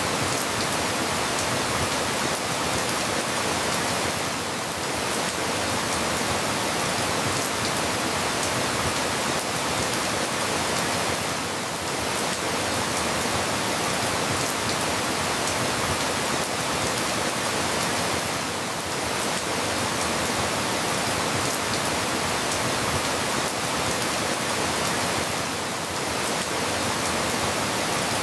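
Steady rain falling, a dense even hiss; the level dips slightly about every seven seconds.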